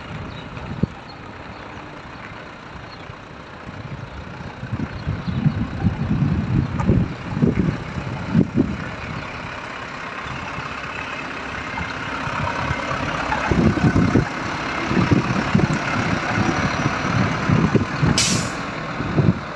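FAW 9.130FD tipper truck's diesel engine running, getting louder in the second half, with a short sharp hiss of air about eighteen seconds in. Wind buffets the microphone.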